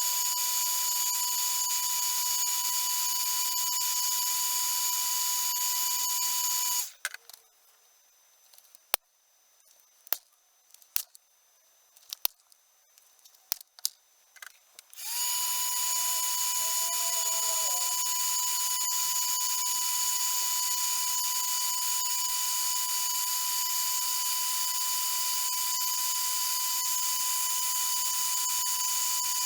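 Electric heat gun running with a steady blowing whine, switched off about seven seconds in; during the pause a few sharp clicks and taps are heard, then it is switched back on around fifteen seconds in, its fan briefly winding up before running steadily again.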